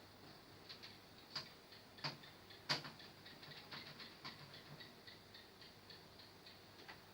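Faint, irregular small clicks and taps from parts and tools being handled, with one sharper click about three seconds in.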